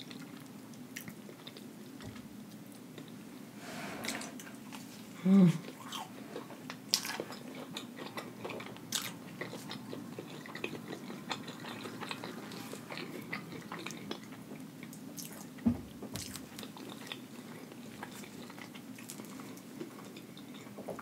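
Close-miked biting, chewing and crunching of crispy Flamin' Hot Cheeto-crusted fried food, with scattered sharp crunch clicks. There is a short pitched sound about five seconds in and a soft thump about sixteen seconds in.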